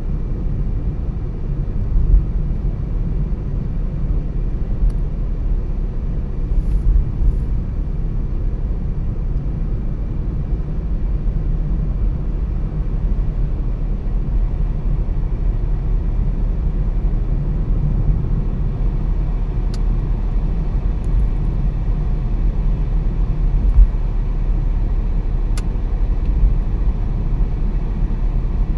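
Car driving on a road: a steady low rumble of tyres and engine, with a few faint, brief ticks.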